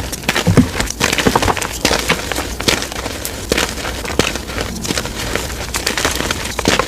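Blocks of dyed gym chalk being crushed and crumbling: a dense run of irregular crisp crackles and snaps.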